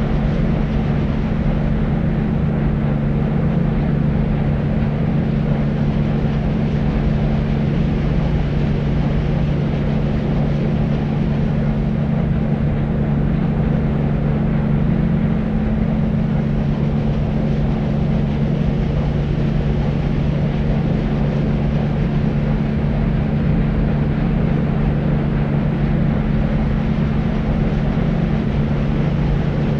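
Deep white noise: a steady, unchanging low rush weighted toward the bass, with a steady low hum in it and little treble.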